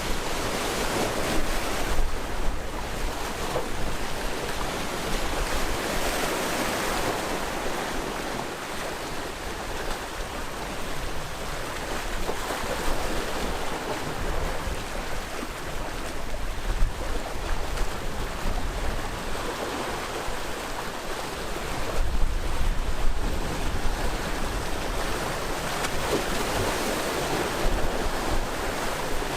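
Sea waves breaking and washing on the shore: a continuous surf that swells with each wave every few seconds. Wind rumbles on the microphone, picking up in the last third.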